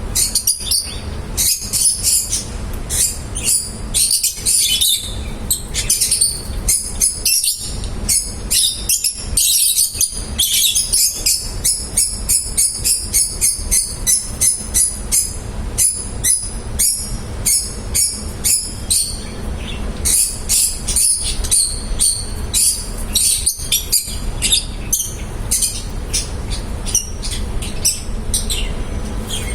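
Small pet parrots chirping in rapid, high-pitched runs of many overlapping calls, with a steady low hum underneath.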